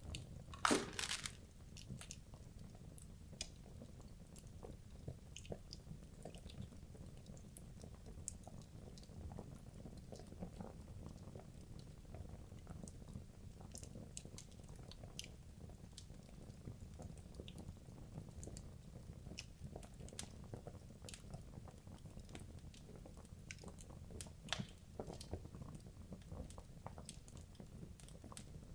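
Wood logs burning in a fireplace, crackling: irregular small pops and snaps over a steady low rumble of the flames, with one louder, longer crack about a second in.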